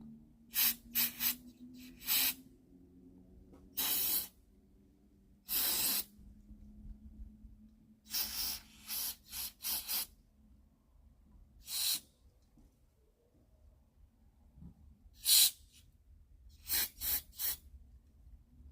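Aerosol carburetor cleaner sprayed in short hissing bursts into the passages of a small-engine carburetor to flush them out, about fifteen squirts of varying length, some in quick runs of two or three.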